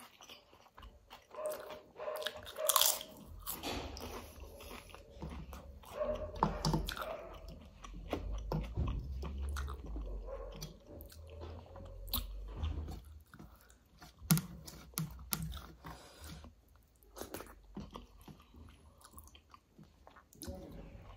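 Close-miked eating sounds: chewing and crunching mouthfuls of kadhi chawal with sliced raw onion and tomato, eaten by hand, in irregular bites and clicks.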